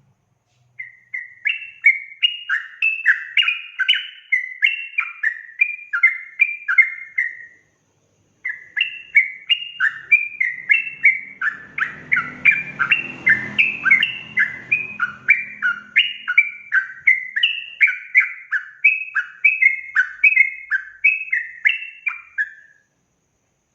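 Yellow-vented bulbul (trucukan) singing a long, fast run of liquid, gliding whistled notes, breaking off briefly about a third of the way in before continuing. A faint low rumble sits under the song in the middle.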